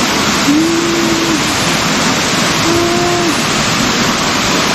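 Waterfall rushing steadily. Two brief held tones of the same pitch sound over it, about half a second in and again about three seconds in.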